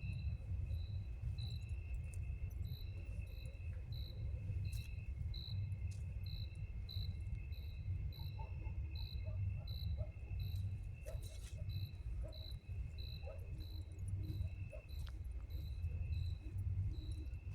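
Night insects, crickets, calling: a steady high trill under a separate chirp that repeats about twice a second, over a constant low rumble.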